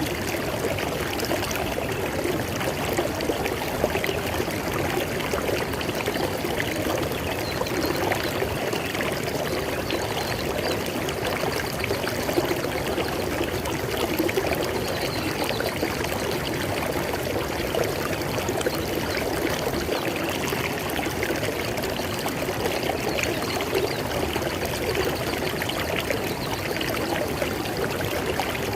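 River water flowing steadily, a continuous rushing and babbling with no breaks.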